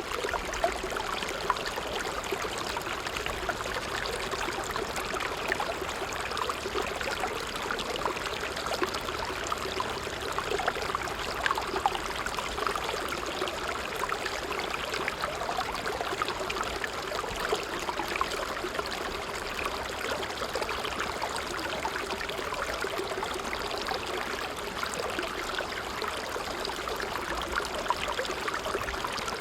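A small stream running steadily: continuous trickling and splashing water.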